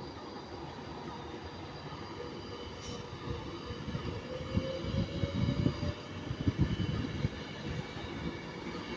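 Class 390 Pendolino electric train pulling away, its traction motors giving a whine that rises in pitch, the 'underground noise', while the rumble of the wheels builds as it gathers speed.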